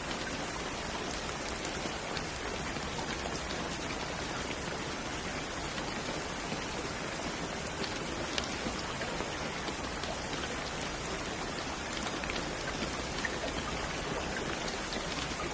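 Steady rain falling, an even hiss of many small drops hitting a surface, with faint individual drop ticks scattered through it.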